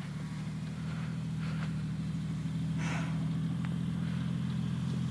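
Jeep engine running steadily, a low hum that grows slightly louder, with a brief hiss about three seconds in.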